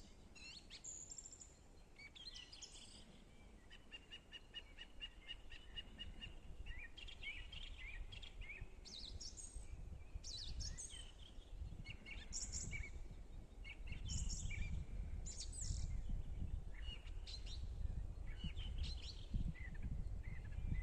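Songbirds singing in short, varied phrases, with a run of quick repeated notes a few seconds in. A low rumble underneath grows louder in the second half.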